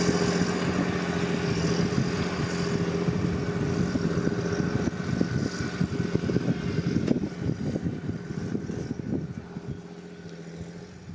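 John Deere 8520T crawler tractor's 8.1-litre PowerTech six-cylinder diesel running steadily under load while pulling a plough. It grows fainter over the last few seconds.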